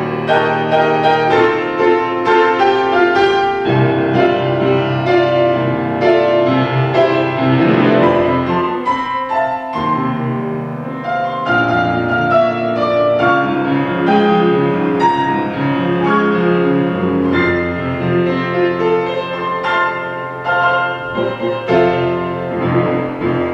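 Postlude played on piano: flowing chords and melodic runs in a classical style.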